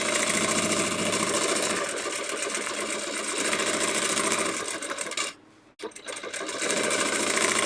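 Domestic sewing machine stitching fast during free-motion quilting, a rapid even needle clatter. It stops briefly about five seconds in, then starts stitching again.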